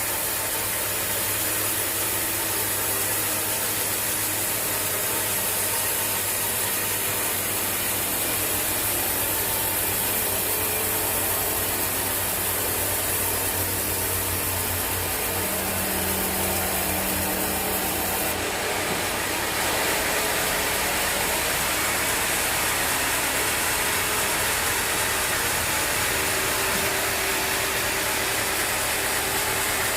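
Sawmill machinery running steadily: an engine drone with a mechanical rattle and hiss, the hiss growing brighter about two-thirds of the way through.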